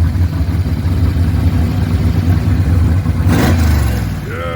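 Supercharged 1970 Dodge Charger engine running with a deep, steady rumble. A short rushing burst comes about three seconds in.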